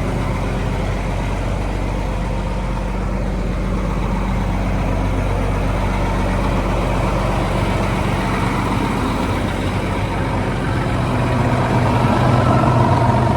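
Mack E7-400 inline-six diesel engine idling steadily; near the end it grows a little louder.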